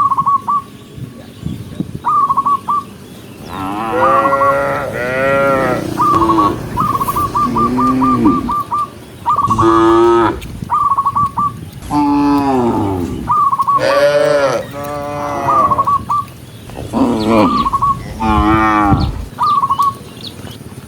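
Cattle mooing over and over, several cows calling in long, bending, overlapping moos. Between the moos, a short high chirp repeats in quick runs.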